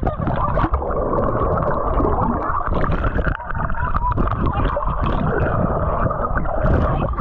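Muffled, continuous churning and splashing water, heavy in the low end with irregular small knocks and gurgles.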